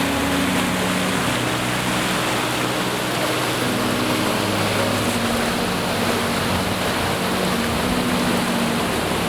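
Mountain stream water rushing steadily over rocks, heard close up. Low sustained notes sit underneath, changing every second or two.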